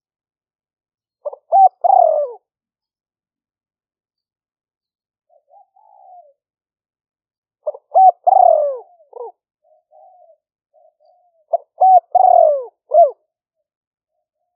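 Spotted dove cooing: three loud phrases about five seconds apart, each a few short clipped notes followed by a longer falling coo, with softer short coos in between.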